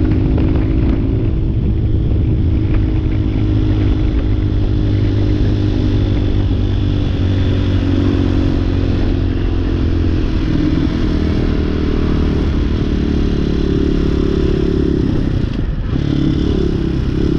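Hawk 250 motorcycle engine running steadily under way, its pitch rising a little about ten seconds in and dipping briefly near the end.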